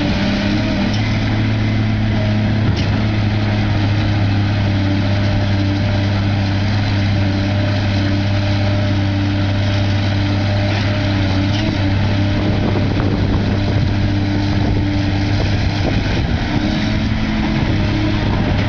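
Large diesel engine of heavy construction machinery running steadily at constant speed with a deep drone, with some clatter in the second half.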